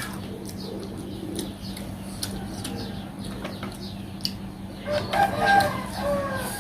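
A rooster crowing about five seconds in, a call of about a second and a half. Under it, small clicks and smacks of eating and a steady low hum.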